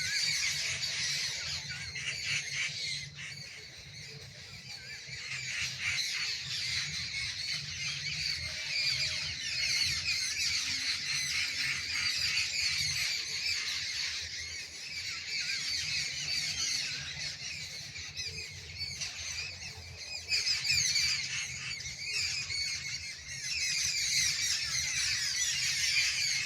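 Many birds calling at once in a dense, continuous chatter of short, overlapping calls.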